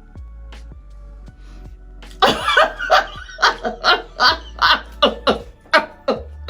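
A person laughing loudly in a rapid, rhythmic ha-ha-ha, about three bursts a second, starting about two seconds in, over quiet background music.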